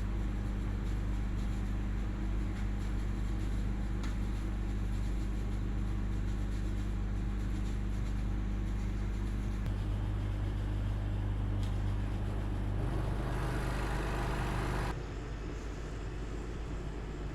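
Steady low hum of a running vehicle engine, with a louder rush of noise for about two seconds near the end before the level drops slightly.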